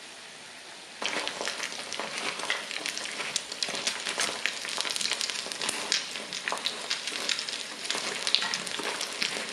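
Breaded, rice-paper-wrapped king oyster mushroom cutlets shallow-frying in hot oil on high heat to crisp and brown the crust: a dense crackling sizzle full of small pops. It is a soft hiss at first, then about a second in it suddenly gets louder.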